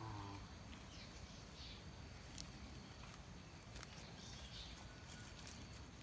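Quiet outdoor ambience with a few faint, short high chirps and scattered light clicks. At the very start, the tail of a low, drawn-out pitched call fades out.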